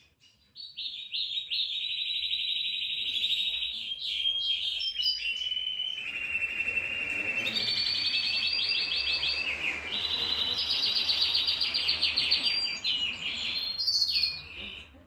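A bird singing long, rapid trills, each held for a few seconds and stepping up or down in pitch from one to the next.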